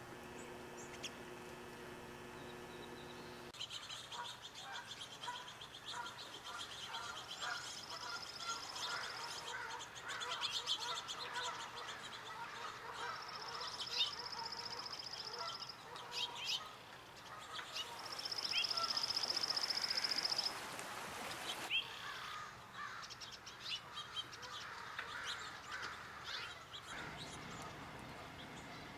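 Wild birds singing and calling, several at once, with a high, even trill about two seconds long that comes three times. The background changes abruptly a few times.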